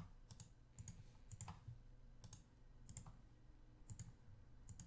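Faint computer mouse clicks, about seven, spaced a half second to a second apart, each a quick press and release.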